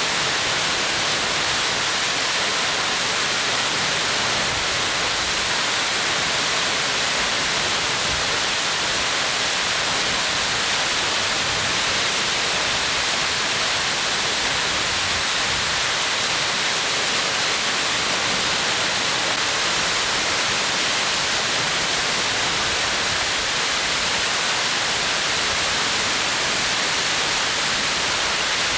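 A waterfall, one of the lower falls of the Yae-daki cascade, pouring steadily: an unbroken, even rush of water with a strong hiss.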